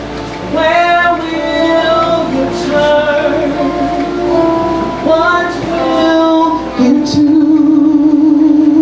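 A woman singing a gospel song over instrumental accompaniment, holding long notes and sliding between pitches, ending on one long held low note.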